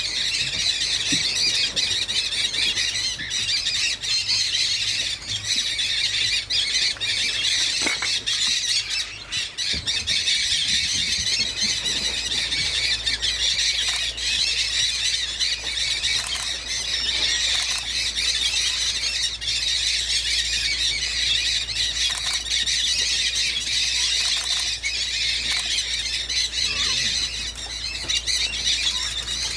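A large flock of mealy amazon parrots calling together, many harsh calls overlapping into a steady din.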